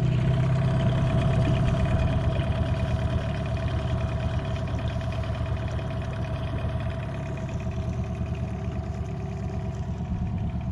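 Motorboat engine running steadily at a low, even speed, its loudness easing slightly towards the end.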